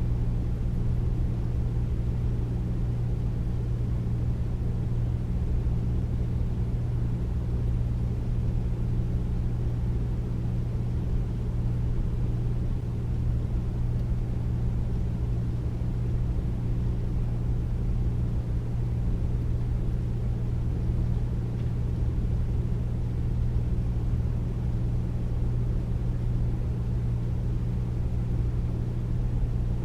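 Air conditioner running steadily: a deep, even hum under a low rush of noise, with no change in pitch or level.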